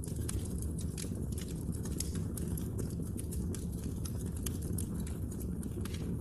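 Wood fire crackling: frequent, irregular sharp snaps and pops over a steady low rumble of burning.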